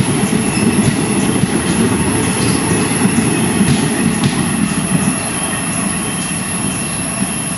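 Passenger train coaches rolling past at speed, wheels rumbling and clattering on the rails. The noise eases off once the last coach has gone by, about four seconds in, and the train draws away.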